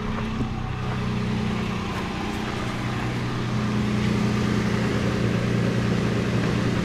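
2007 Toyota FJ Cruiser's 4.0-litre V6 idling steadily, a low even hum that grows a little louder near the end.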